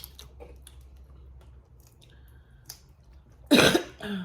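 Close-miked eating noises during a crawfish boil meal: faint small clicks and mouth sounds, then one loud, short throat or mouth sound about three and a half seconds in.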